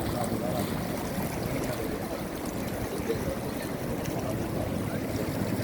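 Floodwater rushing past in a steady, even wash of noise.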